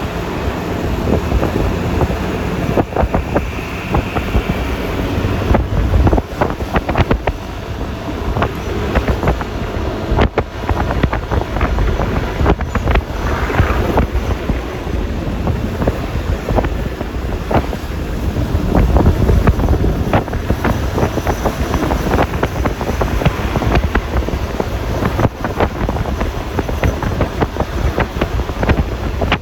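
Wind buffeting the phone's microphone on a moving Yamaha Lexi LX 155 scooter, over the steady rumble of its engine and the tyres on the road, with constant rapid gusts.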